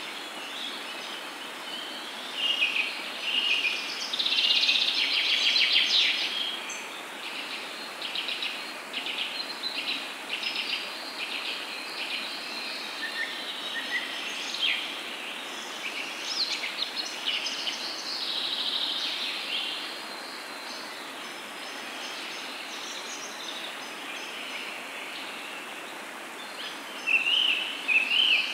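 Birds chirping and singing over a steady background hiss, with bursts of rapid trilled calls a few seconds in and again near the end.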